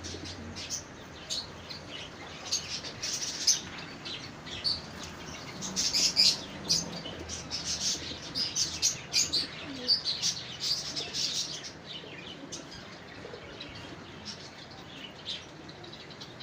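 Many birds chirping together in a dense stream of short, high calls, busiest in the middle and thinning out toward the end.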